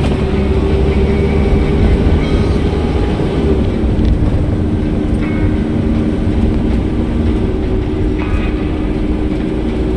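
Car driving along a road: steady engine and road rumble. The engine note drops a little about four seconds in.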